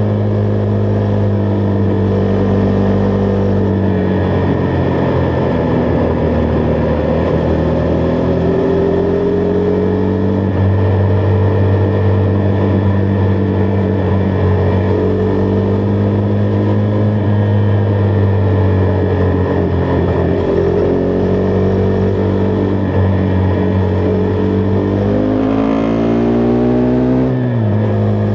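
Husqvarna Vitpilen 401's single-cylinder engine running under way at a fairly steady cruise, its pitch rising and falling a little. Near the end the revs climb for about two seconds, then drop sharply as it shifts up a gear.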